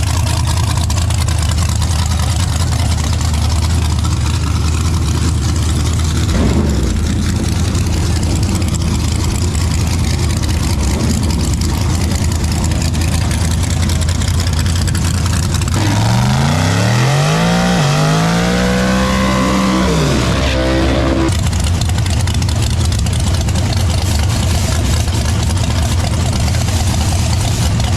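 Drag-racing truck engine running with a steady low rumble. About two-thirds of the way through, an engine revs up, dips, climbs again and falls back over a few seconds, then cuts off abruptly.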